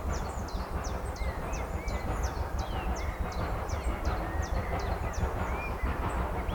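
A bird calling over and over in short, high, falling notes, about three a second, over a steady low rumble.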